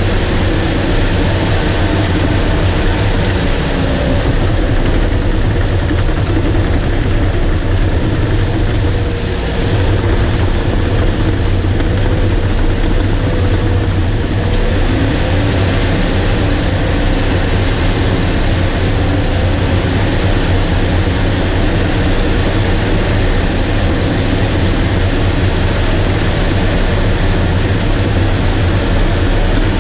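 Bulldozer's diesel engine running steadily while it works stripping topsoil, heard close up, with a slight dip in level about nine seconds in.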